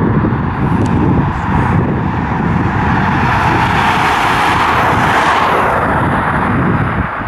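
Rumble of a passing container freight train behind an ET22 electric locomotive, heard under gusty wind buffeting the microphone. A rushing noise swells to a peak about two thirds of the way through, then fades.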